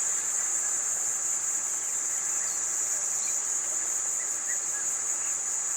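Steady, high-pitched insect chorus, an unbroken shrill drone, with faint short chirps scattered through it.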